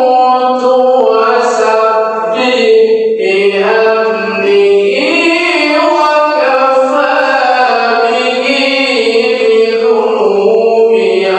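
A qori's melodic Quran recitation: one male voice holding long, ornamented notes that slide and waver in pitch, with a few short breaks between phrases.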